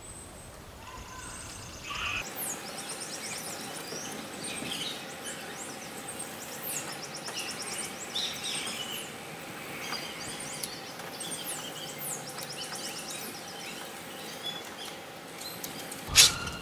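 Wild birds chirping and singing over steady outdoor background noise. A sharp knock near the end.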